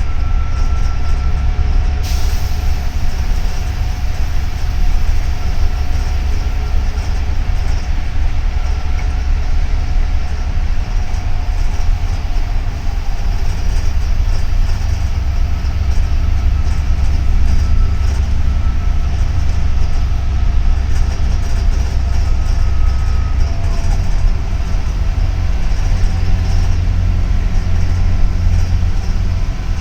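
Steady low rumble of a double-decker city bus under way, heard from inside the cabin: engine and road noise.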